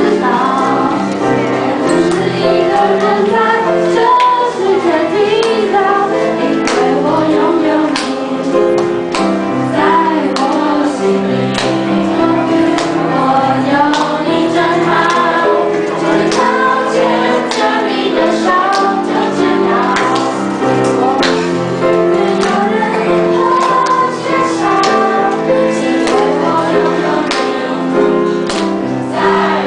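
A choir of students singing a song in unison with instrumental accompaniment and a steady beat.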